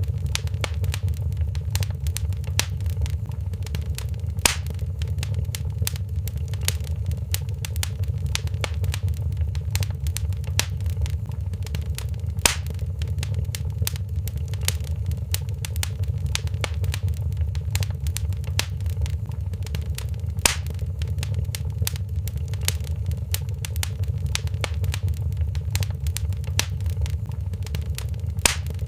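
Wood fire in a fireplace crackling steadily: a constant low rumble of the flames under many small crackles, with a sharper pop about every eight seconds.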